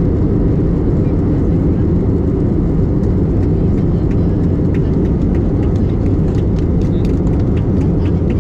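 Airliner cabin noise: a steady, loud low rumble from the engines and airflow, with light rattling clicks that grow more frequent about three seconds in.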